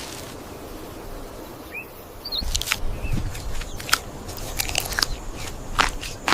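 Irregular sharp cracks and crunches begin about two and a half seconds in, over a low rumble, with a few faint high squeaks.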